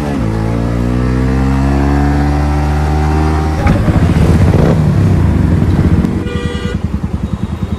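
Yamaha MT-15's single-cylinder engine through a modified exhaust, pulling away with its pitch climbing through a gear change, then running rougher for a few seconds. A vehicle horn toots briefly about six seconds in, and the engine drops to a low, pulsing beat.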